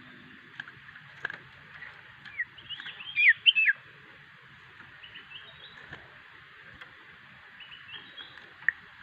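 Common iora (cipew) calling: short high whistled chirps and downward-sliding notes, with a loud burst about two to four seconds in and fainter groups around five and eight seconds, over a steady hiss.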